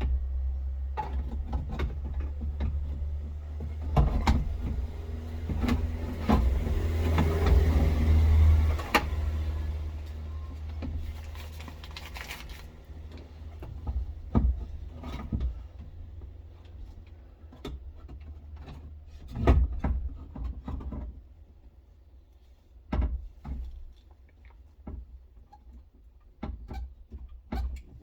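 Knocks, clunks and scraping as a car window regulator and motor assembly is worked back into the inside of a door, with a low rumble under it for much of the time. The knocks are scattered, with a longer stretch of scraping early on and sharper single knocks later.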